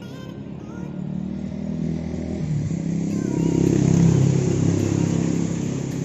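A motor vehicle passing close by: its engine hum grows louder to a peak about four seconds in, then eases off.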